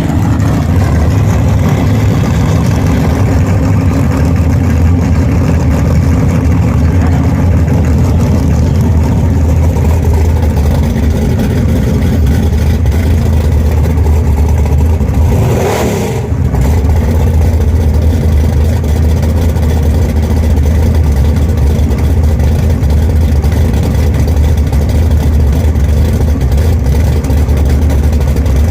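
Drag car's engine running loud and steady, with a brief drop in level and a short rushing noise about sixteen seconds in.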